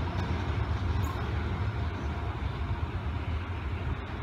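Low, steady rumble of a train running past on the line, easing off slowly as it moves away.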